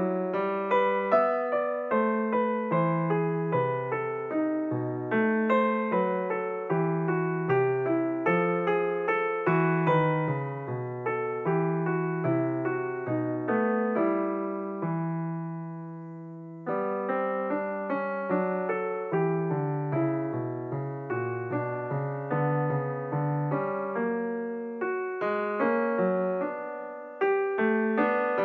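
Background piano music: a steady flow of notes over a lower accompaniment, with one chord held and left to fade about halfway through before the playing picks up again.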